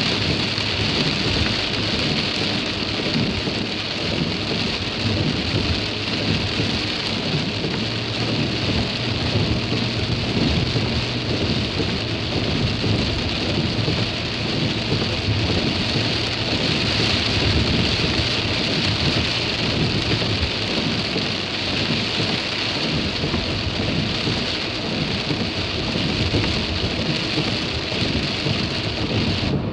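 Steady rain noise with a continuous low rumble and hiss, as heard from a car driving in the rain.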